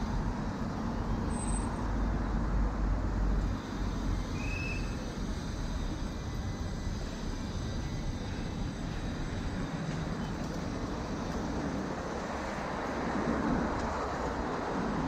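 Steady city traffic noise heard from a moving bicycle: a continuous rush of passing cars and buses with a low rumble underneath.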